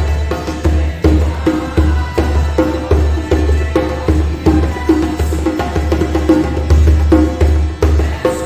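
Djembe played in a steady repeating rhythm, deep bass strokes alternating with higher ringing tone and slap strokes.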